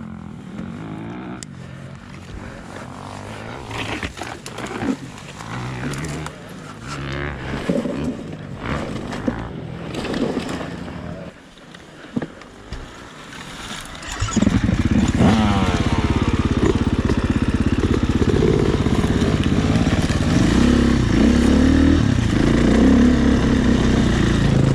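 Dirt bike engine, quiet at first among scattered knocks, then loud and close from about fourteen seconds in, running with rising revs.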